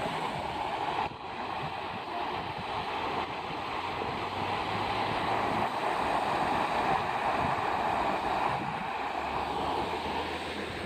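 Steady rush of falling water, like a waterfall, with a brief dip about a second in.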